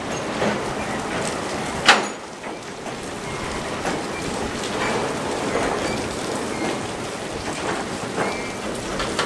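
Freight train of flatcars loaded with military vehicles rolling slowly past, a steady rumbling hiss of wheels on rail mixed with light rain. One sharp clank about two seconds in, and faint short squeals twice later on.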